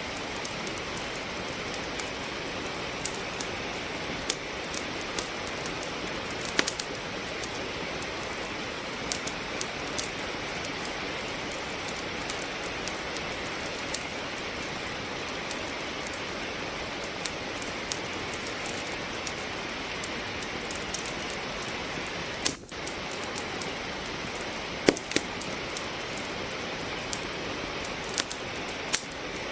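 Steady rain with a wood fire crackling in a fireplace: a continuous hiss of rain, with sharp pops and snaps from the burning logs scattered throughout. The loudest pop comes about 25 seconds in, and the sound dips for a moment just before.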